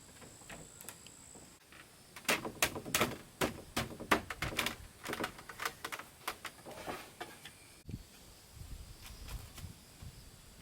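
A run of sharp, irregular knocks and taps of hand tools striking wood, a few a second, some with a short ring.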